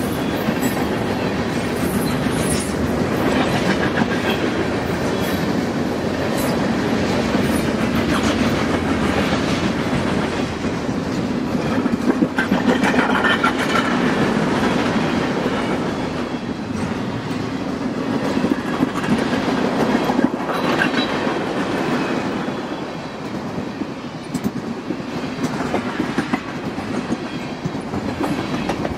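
Freight train rolling past: a steady rumble of cars with irregular clicking of steel wheels over the rail joints.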